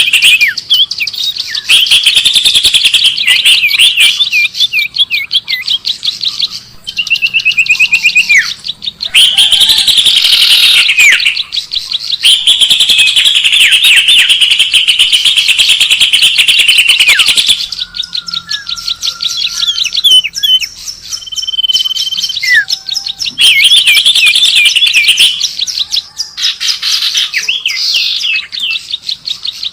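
Recorded small songbirds chirping and trilling loudly, played as a bird lure: fast runs of high chirps with short gliding whistles, in long bursts broken by brief pauses.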